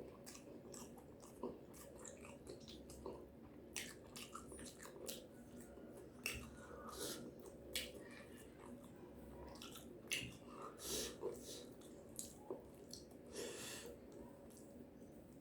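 Close-miked chewing and biting of a meal of fried chicken, fried tofu and tempeh: faint, irregular wet mouth clicks and soft crunches, a few louder bites now and then.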